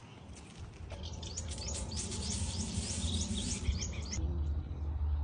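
A bird repeating a short rising chirp several times a second, over a steady low rumble; the chirping stops abruptly about four seconds in.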